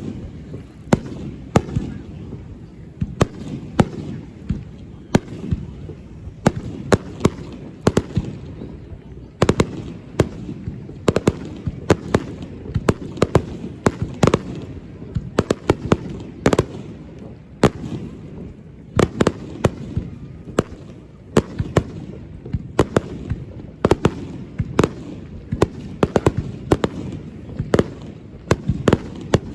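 Fireworks display: shells bursting in quick, irregular succession, a few sharp bangs a second, over a steady low rumble.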